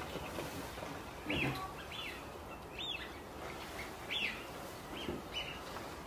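A bird calling repeatedly: short chirps that rise and fall, about seven of them spaced unevenly, over a steady hiss of outdoor background noise.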